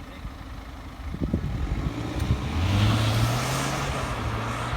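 A 2017 BMW 520d with its 2.0-litre four-cylinder diesel on the move, a low rumble with tyre and road noise. The sound grows louder about two and a half seconds in, with a steady low hum.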